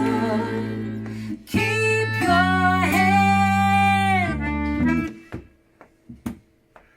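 Live band playing guitar music with long held notes. About five seconds in it drops away to a few quiet, scattered plucked guitar notes.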